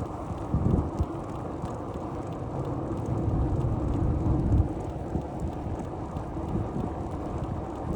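Low rumbling wind buffeting on the microphone of a moving bicycle, mixed with tyre and road rumble, swelling louder about half a second in and again from about three to four and a half seconds.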